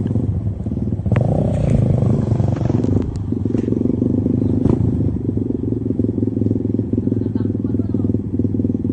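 Dirt bike engine running under way, revving harder for a couple of seconds about a second in, with a few sharp knocks and rattles from the bike on rough ground.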